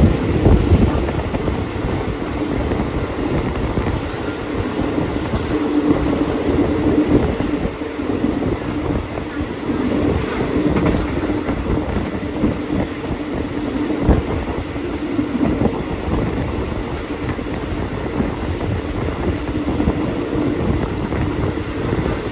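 Passenger train carriage running along the track, heard through an open window: a steady rumble of wheels on rail with a constant hum, and a few sharper knocks from the wheels, the clearest about half a second in and about 14 seconds in.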